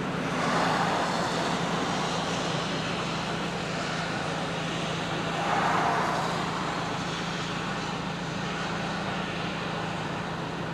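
Road traffic noise over a steady low hum, swelling twice: briefly near the start and again about six seconds in, as vehicles pass.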